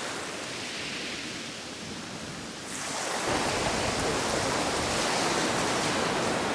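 Ocean surf washing on a rocky sea coast: a steady hiss of waves that swells louder about three seconds in and stays up.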